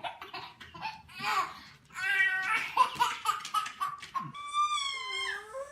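A baby laughing in quick high-pitched bursts, followed by one long high-pitched call that wavers and then slides down in pitch near the end.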